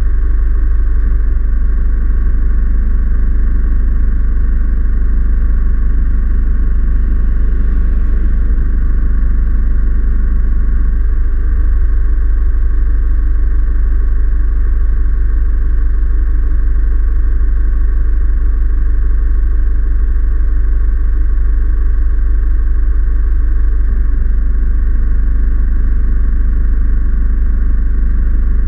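Steady loud low rumble of a vehicle engine. About eleven seconds in, a vehicle passes on the gravel road and the lower part of the rumble shifts.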